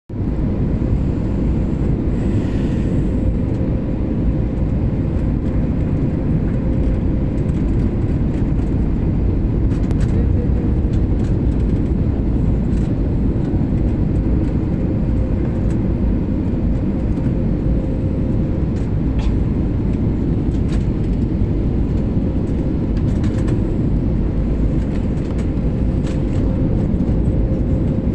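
Steady roar of airliner cabin noise, a dense low rumble of engines and airflow with a faint steady hum over it.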